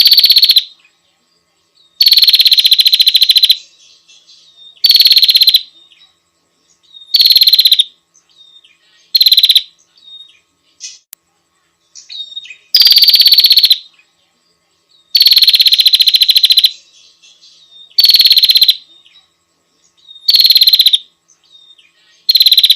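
Female prinia (prenjak) calling: a loud buzzy rattle every two to three seconds, each lasting half a second to a second and a half, with faint short chips between. This is the female's call to a male.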